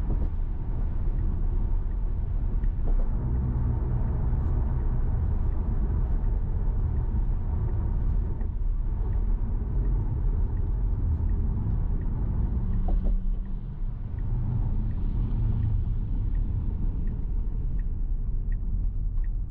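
Steady low rumble of tyres on a wet road heard inside the cabin of an electric Tesla Model Y, with rain noise, briefly dipping about two-thirds of the way in.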